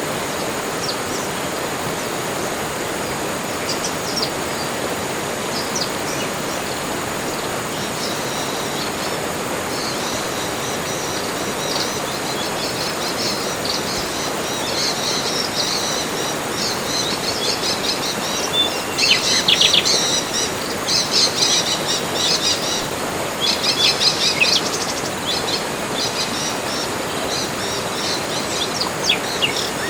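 Wild birds calling and chirping in a tropical forest over a steady rushing hiss, with a run of rapid, loud chattering calls a little past the middle.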